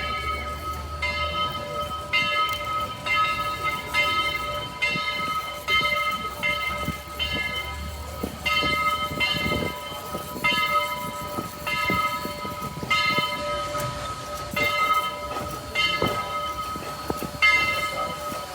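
Railroad grade-crossing bell ringing steadily at about one and a half strikes a second, over the low rumble and wheel clicks of a passing train.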